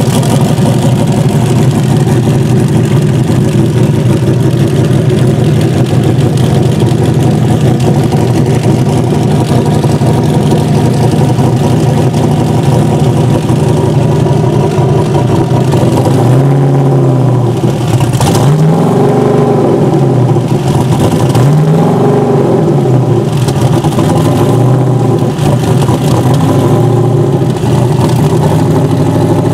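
The twin-turbo, 1500 hp Katech race-built iron-block engine of an RCR SL-C idling steadily. About halfway through it is revved in several short throttle blips, each a rise and fall in pitch.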